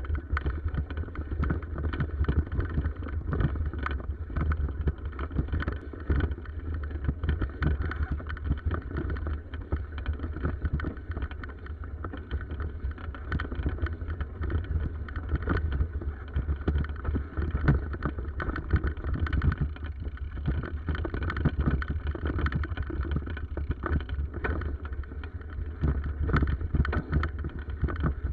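Riding a bicycle: a steady low wind rumble on the microphone with constant small rattles and clicks.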